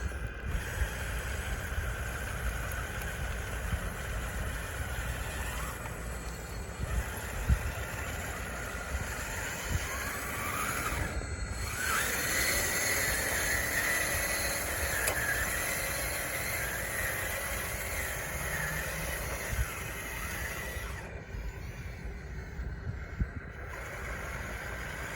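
A radio-controlled bulldozer's electric motors whining as it works, over a low rumble and scattered knocks. The whine climbs in pitch about ten seconds in, holds steady for several seconds, then drops away near the end.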